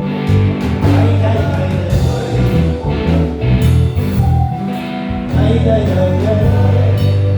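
Live band playing: electric bass and drums driving the groove with keyboard chords, and a wavering lead melody above them.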